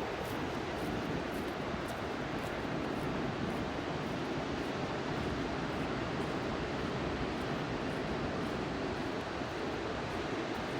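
Steady outdoor rushing noise, an even hiss of moving air or distant water with no distinct events.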